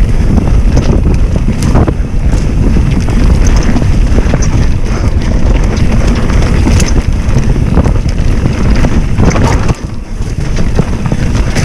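Wind buffeting the microphone of a camera on a moving bicycle, a loud, steady rumble with occasional small knocks.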